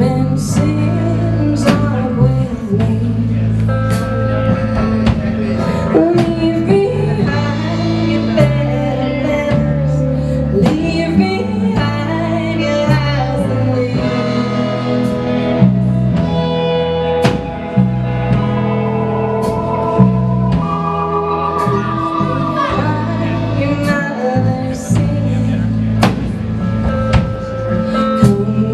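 Live band playing a song: drum kit, bass, guitars, keyboard and violin, with singing over a steady beat.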